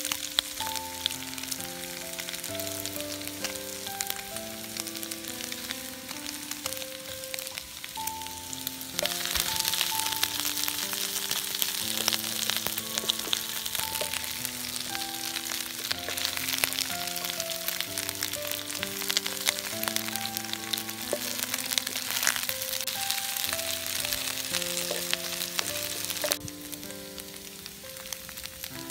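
Chicken and potato pieces sizzling as they fry in a pan, the sizzle growing louder from about nine seconds in and dropping back near the end. A soft background music melody plays underneath.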